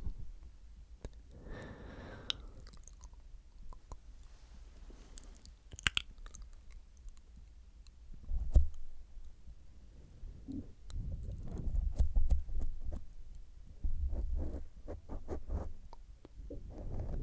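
Close-up wet mouth sounds on the microphone: licking and smacking with many scattered sharp clicks, and low thumps of contact against the mic, the loudest about halfway through.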